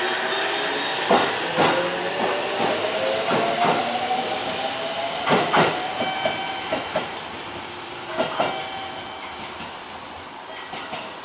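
Aichi Loop Railway electric train pulling out and accelerating away. Its motor whine rises slowly in pitch, and the wheels clack over the rail joints in pairs, the whole fading as the train recedes.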